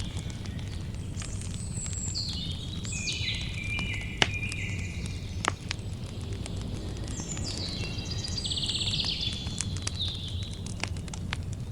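Campfire crackling: a steady low rumble with frequent sharp pops, two loud ones about four and five and a half seconds in. Over it a songbird sings two long phrases of stepped high notes, the second with a fast trill.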